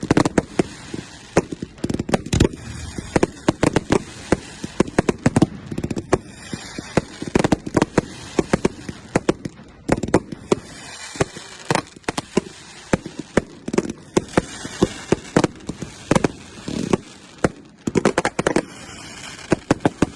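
Firework display going off: a dense, continuous run of sharp bangs and crackling shell bursts, many in quick succession.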